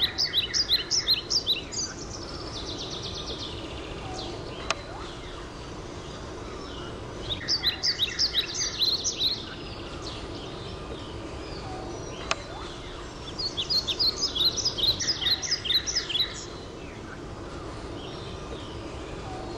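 A bird singing in three bouts of rapid, repeated high chirps, each lasting about two to three seconds, over steady outdoor background noise, with two single sharp clicks in between.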